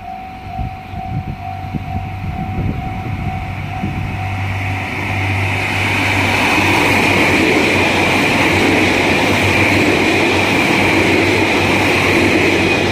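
A level-crossing warning bell rings repeatedly at first. From about five seconds in, a limited express train rushes through the crossing and its rolling noise drowns out the bell.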